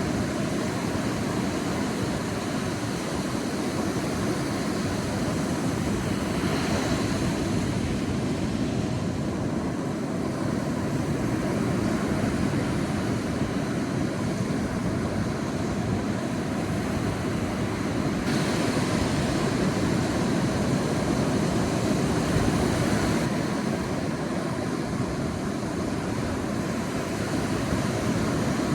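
Sea surf on a beach: a steady low rush of waves, with a brighter hiss as a wave washes in about six seconds in and again for several seconds from about eighteen seconds.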